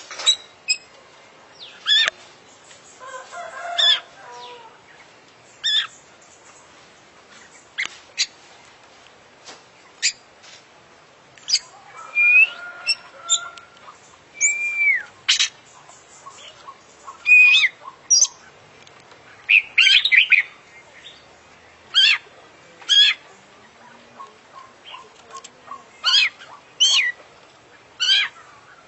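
Oriental magpie-robin (kacer) singing: loud, sharp whistled notes and short slurred phrases, about one a second with short pauses, mixed with bits of scratchier chatter. This is a song packed with fill-ins, phrases it mimics from other birds.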